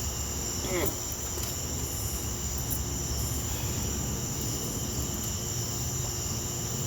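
Crickets chirping in a steady, unbroken high chorus over a low background rumble, with one brief gliding squeak about a second in.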